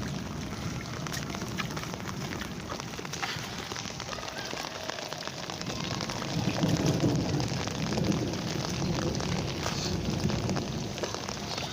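Heavy monsoon rain falling and splashing: a steady hiss dotted with the ticks of single drops, swelling louder from about six seconds in.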